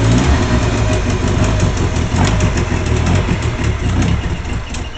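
Engine idling steadily during its first test runs.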